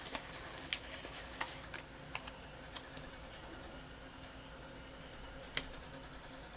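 Scattered light clicks and taps of sticker sheets and paper being handled on a planner, with one sharper tap about five and a half seconds in.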